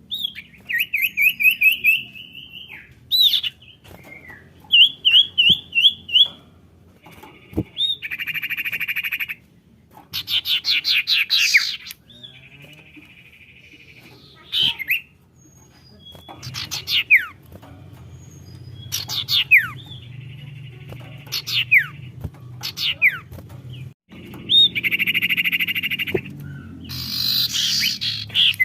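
Sirtu (common iora) calls played as a lure: fast wavering trills, sharp falling whistles and rasping chattering phrases, one after another with short pauses.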